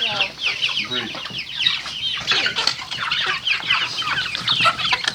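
A flock of young chickens peeping and chirping, with many short, high, falling calls overlapping continuously.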